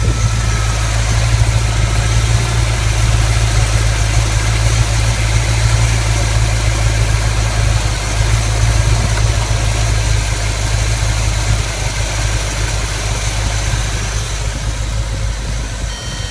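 Small-block V8 of a 1980s Camaro idling steadily, running pretty decently now that a spare electric fuel pump feeds it.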